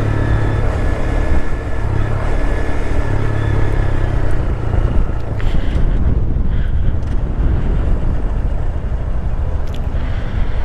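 Honda Grom's small single-cylinder engine running at a steady pace while riding, mixed with heavy wind rumble on the microphone. The engine note is clearest in the first half, then the wind noise covers it more.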